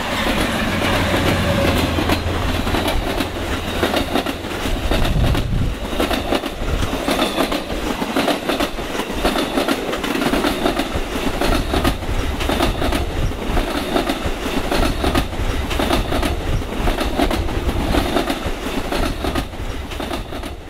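A train running past, its wheels clattering over the rail joints above a steady rumble. A low engine drone sits under it for the first few seconds, and the sound fades out near the end.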